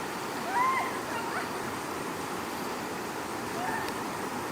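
A puppy whimpering: a loud, short rising-and-falling yelp about half a second in, and a fainter short whine near the end, over a steady rushing noise.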